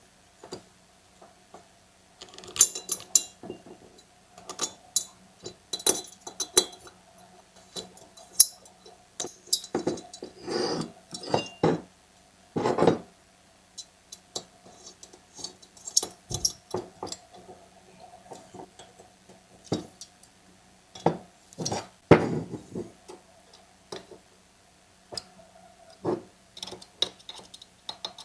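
Small metal chainsaw parts and hand tools clinking, clicking and knocking on a workbench, with a few short scraping or rustling stretches. A faint steady hum runs underneath.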